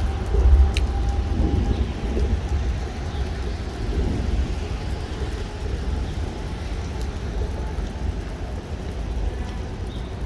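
Rain falling during a thunderstorm, with a continuous low rumble that is strongest in the first second.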